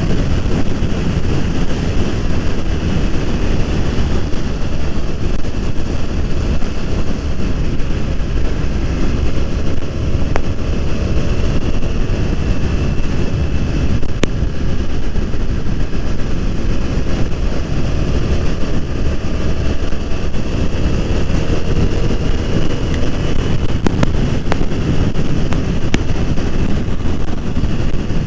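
Heavy wind buffeting on the microphone over a BMW F 800 R's parallel-twin engine running at a steady cruise, its pitch drifting slowly up and down with road speed.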